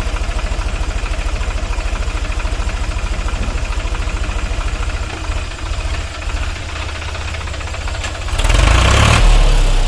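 Sonalika 745 tractor's diesel engine running with a fast, even low throb, which becomes less regular about five seconds in. Near the end, a loud rush of noise lasts about a second and a half.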